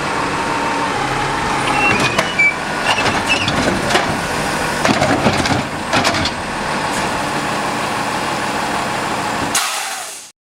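Scorpion automated side-loader garbage truck on a Peterbilt cab, its engine running steadily, with a run of metal clanks and knocks for a few seconds in the middle. The sound cuts off suddenly about ten seconds in.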